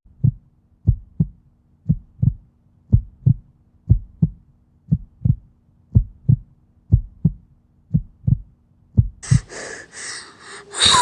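Heartbeat sound effect: low paired thumps, lub-dub, about one beat a second. Near the end the beat stops and a noisy hiss-like sound comes in.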